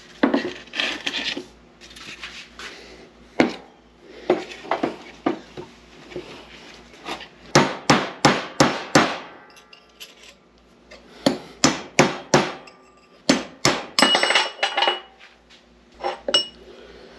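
Hammer blows driving an old bearing race out of an NP205 transfer case's idler gear: runs of quick metal-on-metal strikes, some ringing briefly, with shuffling and knocks between them. The runs come thickest in the second half.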